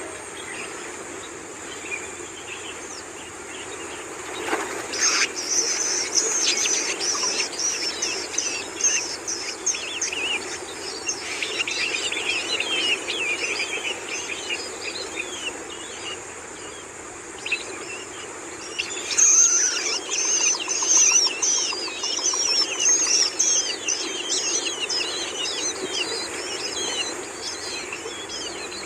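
Long-tailed shrike nestlings calling in rapid, high-pitched chattering bouts, begging as they are fed by a parent. The first bout starts about five seconds in, dies down, and a louder one starts just before twenty seconds in.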